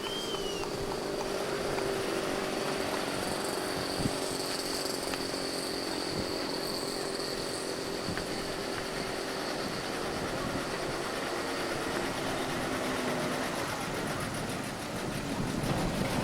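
A motor vehicle's engine running steadily, with a thin high-pitched tone held over it.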